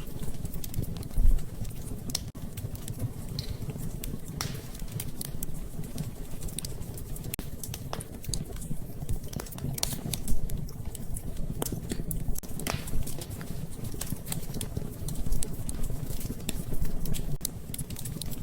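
Wood fire in a fireplace crackling, with scattered sharp pops over a steady low rumble and a couple of louder pops.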